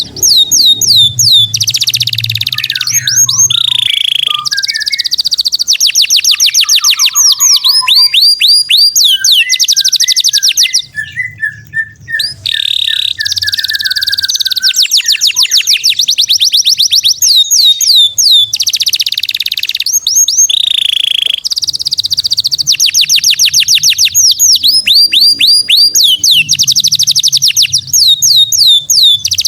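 Loud, unbroken song of a cage songbird, recorded for 'masteran' training, delivered as fast 'tembakan' runs. It is made of rapid series of high sweeping whistles and trills with only short breaks, including a brief lull about eleven seconds in.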